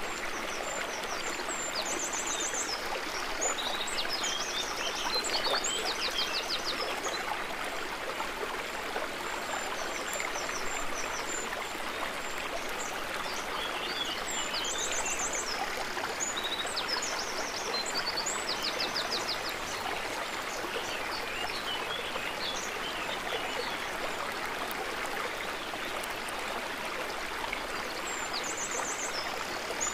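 Water trickling and gurgling steadily, with bouts of high, rapid chirping calls every several seconds.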